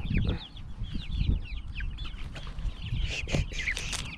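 A flock of backyard laying hens clucking and chattering excitedly over thrown food, many short overlapping calls, with a few low thumps underneath.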